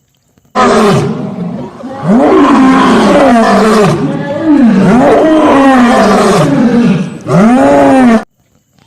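Loud animal-like roaring: a run of long calls that swoop up and down in pitch. It starts abruptly and cuts off suddenly near the end.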